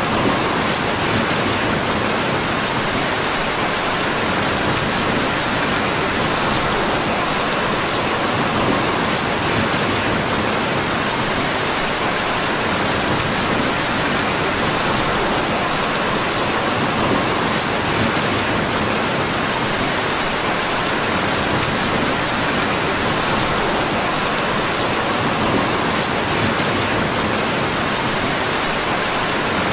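Steady rain falling as a dense, even hiss that does not change in level.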